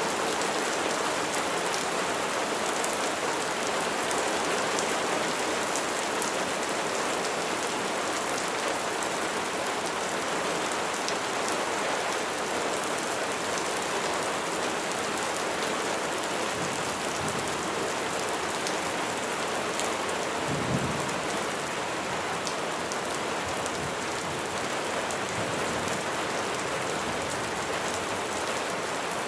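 Steady heavy rain falling, with a hiss of many drops and fine pattering. About two-thirds of the way in, a brief low rumble of thunder rises under it.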